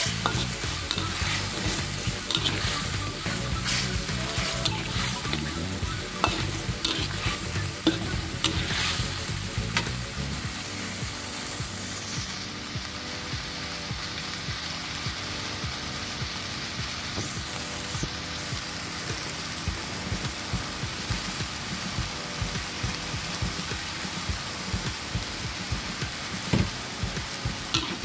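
Beef pieces frying in hot oil in a metal wok, sizzling steadily, while a metal spatula stirs them, scraping and clicking against the pan, most often in the first third.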